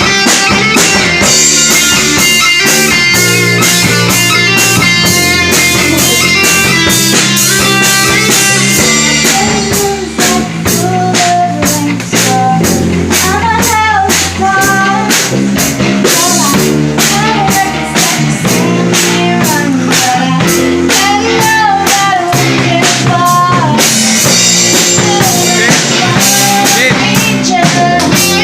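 A rock band plays a song with electric guitar, bass and drum kit. A lead vocalist starts singing about ten seconds in.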